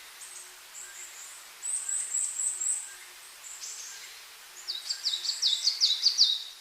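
Birdsong: a run of about five quick, very high chirps about two seconds in, then from near the end a fast string of whistled notes that each slide downward in pitch, over a steady faint hiss.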